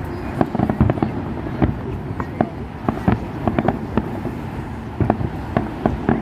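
Fireworks display: a rapid, irregular string of sharp bangs and cracks, several a second, over a continuous low rumble.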